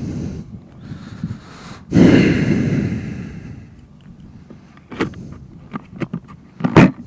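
Close handling noise on a helmet-mounted camera microphone: a loud rustle about two seconds in that fades away, then a quick run of clicks and knocks near the end.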